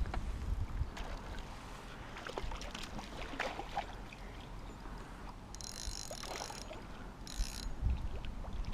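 Light knocks and clicks of gear being handled aboard a kayak on the water, over a low rumble of wind on the microphone, with a short high hiss about six seconds in.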